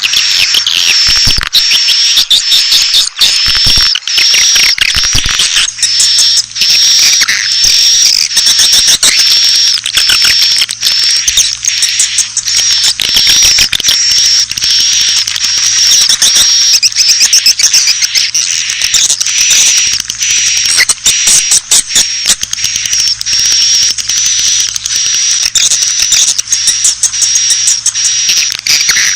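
Swiftlet calls, a dense, continuous high-pitched twittering of rapid chirps and clicks. This is a swiftlet lure call of the kind played to draw swiftlets into nesting houses. A faint low hum sits underneath from about six seconds in.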